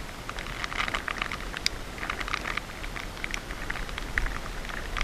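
Rain falling, with many light, irregular drop taps over a steady hiss.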